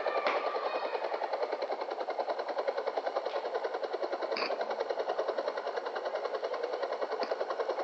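Helicopter rotor beating in a rapid, steady, even rhythm, with a few short clicks over it.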